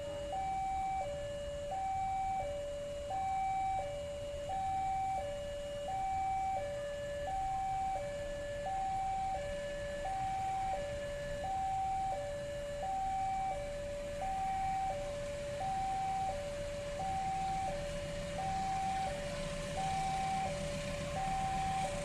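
Railway level crossing warning alarm sounding a steady two-tone high-low chime, about one cycle a second, to warn that a train is approaching. A low rumble builds in the last few seconds.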